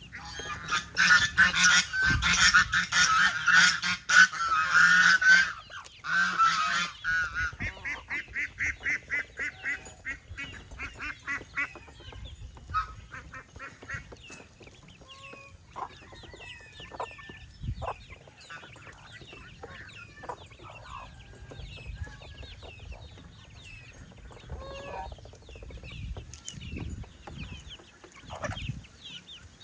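Domestic geese honking loudly together for about the first six seconds, then a run of quick repeated calls that fade out by about twelve seconds, followed by softer, short high-pitched calls.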